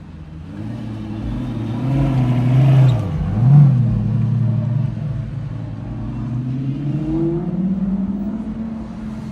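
Lamborghini Gallardo V10 engine revving as the car pulls away. The pitch climbs for about three seconds, drops briefly and jumps in a sharp blip, then settles and rises again near the end.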